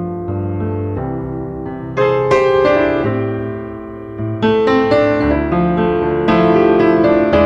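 Piano music, chords and notes struck at a moderate pace, with a louder passage about two seconds in.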